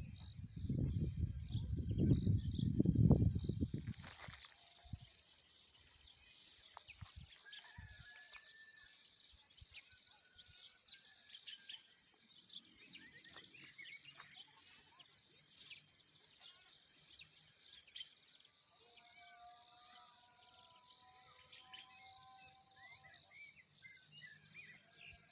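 Small birds chirping and singing in a spring morning chorus, with many short chirps and, later, a few longer held whistles. It opens with a loud low rumble for about four seconds and a single knock.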